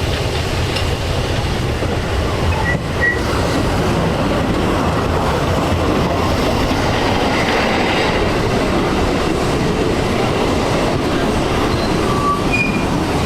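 Narrow-gauge railway train running along the track: a steady rumble of wheels on rails, with a few brief high squeals from the wheels about three seconds in and again near the end.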